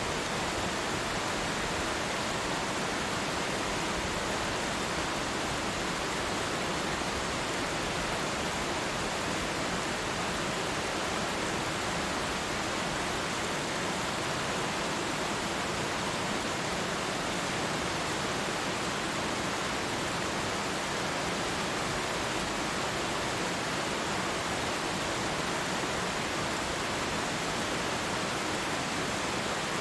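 Waterfall: water falling and splashing as a steady, even rushing hiss.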